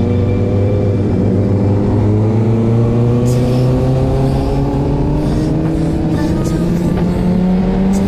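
Motorcycle engine pulling steadily under acceleration, its note rising slowly and smoothly without a gear change.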